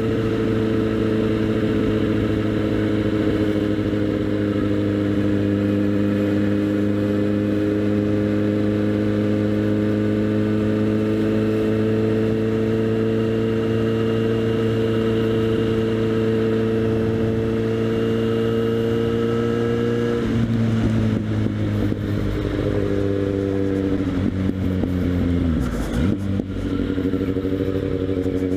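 Kawasaki Z800's inline-four engine through a LeoVince SBK aftermarket exhaust, heard from the rider's helmet while riding. It drones at steady revs for most of the time. About two-thirds through, the drone turns rougher and wavers, and near the end the pitch dips sharply and comes back up before steadying again.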